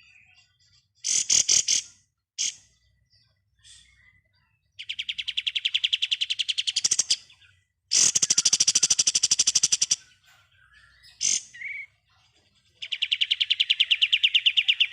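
Kapas tembak songbird singing its rapid machine-gun-like 'ngebren' trill: four loud bursts of fast, evenly repeated high notes, each up to about two seconds long, with short single chirps between them.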